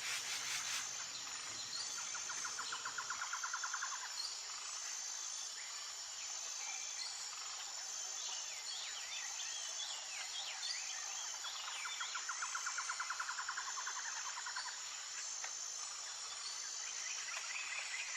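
Outdoor nature ambience: a steady high insect buzz with a regular pulsing note, joined by a rapid trill a couple of seconds in and again past the middle, with scattered short bird chirps in between.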